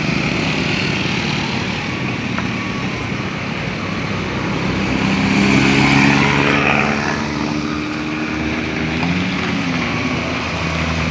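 Vehicle engines running on a road, with noise swelling to its loudest about six seconds in as a vehicle passes, and a heavy engine's pitch rising and falling in the second half.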